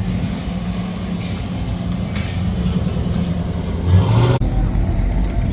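A car engine running with a steady low rumble. It revs up briefly about four seconds in, and the sound then switches abruptly to another steady low rumble.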